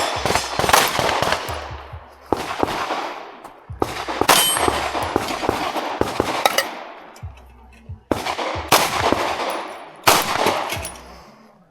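Ported CZ P10C pistol firing in quick strings of shots, about five groups separated by short pauses, each string trailing off in echo.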